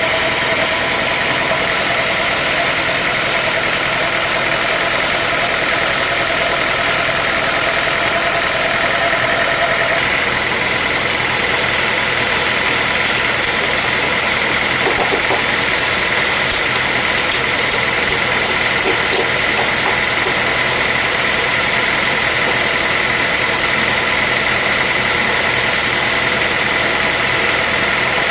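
Sawmill machinery running steadily with a high whine, the tone shifting about ten seconds in.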